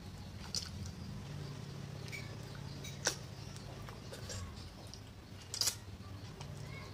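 Mouth sounds of eating chicken feet by hand: a few sharp, wet smacks and clicks while chewing and sucking, the loudest about three seconds in and a pair near the end, over a steady low hum.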